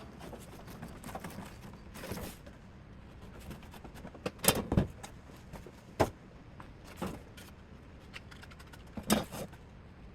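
Hand snips cutting thin copper-coated aluminum gasket sheet: a handful of separate sharp metallic clips, irregularly spaced one to two seconds apart. The loudest cuts come about halfway through and near the end.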